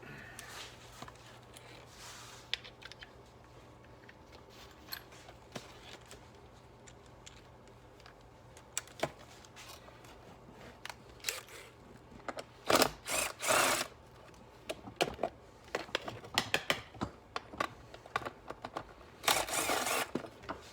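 Hand tools at work undoing a fastener: scattered clicks and knocks, with two louder bursts of about a second each, near the middle and near the end, over a steady low hum.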